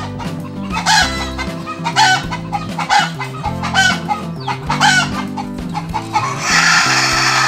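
Domestic chickens clucking in short calls about once a second, then one long call near the end, over background music.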